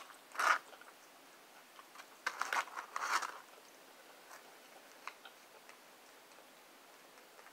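Close-miked crunching and chewing of fries, in a short burst about half a second in and a longer crunchy cluster around the third second, then only faint mouth sounds.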